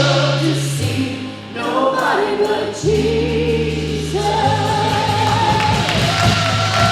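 Live church worship band and singers playing a worship song: long held sung notes over sustained bass, with occasional cymbal hits.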